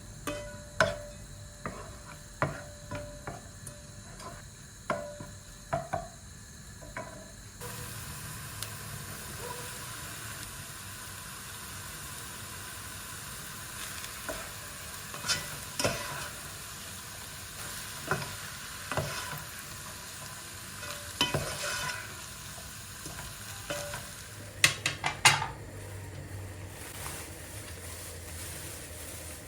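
Cooking in a pan: a metal utensil taps and stirs with a faint ring. From about seven seconds in, a steady sizzle of food frying sets in, with occasional clinks and a quick cluster of clinks near the end.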